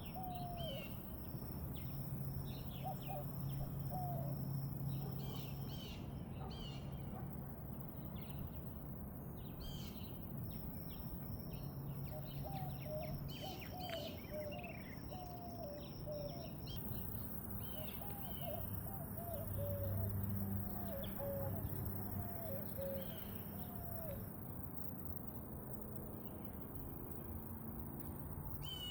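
Birds chirping and calling, many short high chirps throughout with a run of lower, slurred calls in the middle, over a faint steady low hum.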